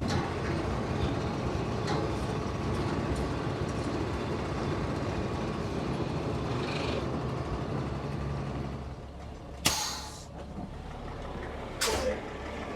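Heavy truck engine running steadily under load as one truck tows another, quieter from about nine seconds in. Two short, sharp hisses follow near the end.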